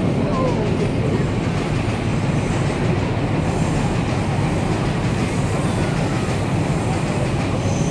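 Train passing on the tracks, a steady, loud rumble of wheels on rails.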